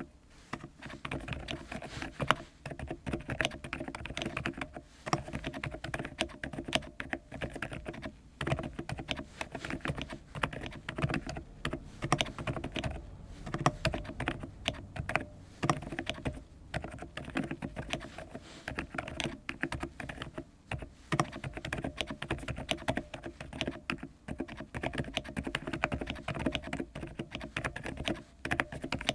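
Continuous typing on a CIDOO ABM066 Alice-layout mechanical keyboard: a rapid, irregular stream of keystroke clicks and clacks.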